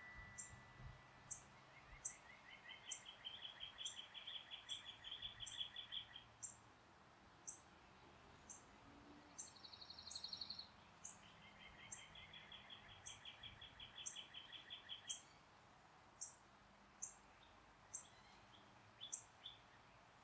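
Songbirds calling and singing, faint: a high chip repeated about twice a second throughout, two trilled songs of several seconds each, and a short, fast, higher trill near the middle. A single wind-chime note fades out at the very start.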